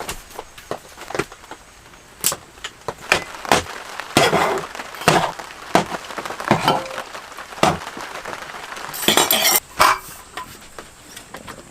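Irregular clinks and knocks of hard objects being handled and set down, with a short scraping or rustling burst about nine seconds in.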